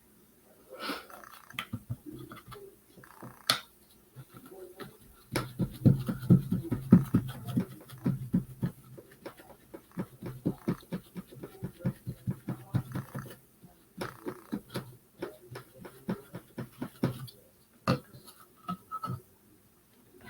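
Paintbrush working paint onto a wooden birdhouse in quick, repeated scratchy strokes, densest through the middle.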